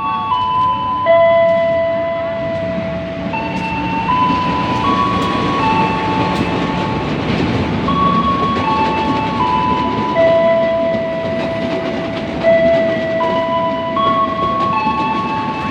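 A simple melody of clean held notes, the pitch stepping to a new note about once a second, plays over the continuous rumble of a train.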